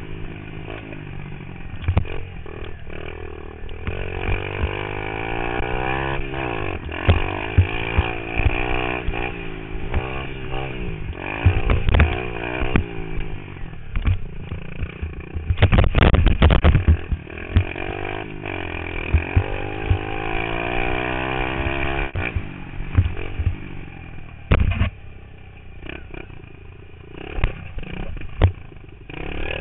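Pit bike engine revving up and down repeatedly as it accelerates and backs off between gear changes around a dirt track. Sudden loud bursts of noise break in throughout, the loudest and longest about halfway through.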